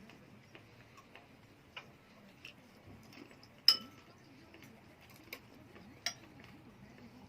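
Cutlery and dishes clinking: scattered light clicks and taps, with one sharp ringing clink about halfway through and a smaller one later on.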